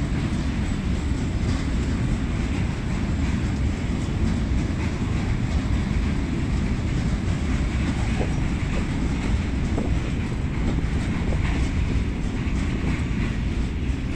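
Freight train rolling past on the rails: a steady, low rumble of wagons.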